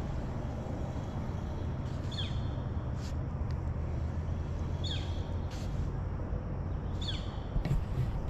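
A bird calling three times, each a short note sliding downward, about every two to three seconds, over a steady low rumble.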